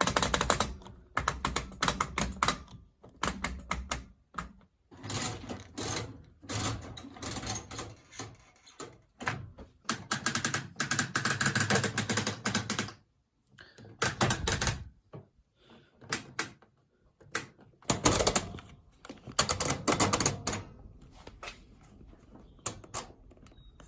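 Old washing machine's rotary program selector dial being turned, clicking rapidly notch by notch in several runs of a second or more, with short pauses between them.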